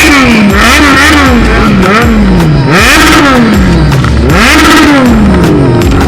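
Sports motorcycle engine revved in repeated throttle blips, about four times: each time the pitch jumps up quickly and then falls away slowly.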